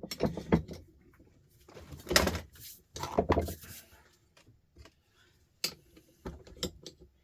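Knocks, clicks and scraping from an old electric sander's plastic housing being clamped in a vise and worked at by hand. There are louder clusters of handling noise about two and three seconds in, with quiet gaps between.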